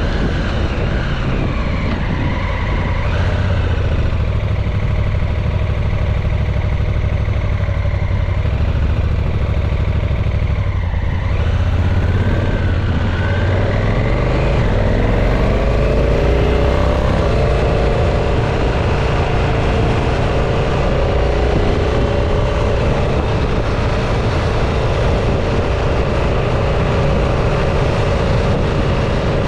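Motorcycle engine heard from on board the moving bike, with heavy wind rush over the microphone. The engine note drops about a third of the way in, rises as the bike picks up speed, and then holds steady at cruising speed.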